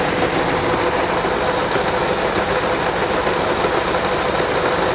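Combine harvester running steadily: an even machinery noise with a faint constant hum underneath.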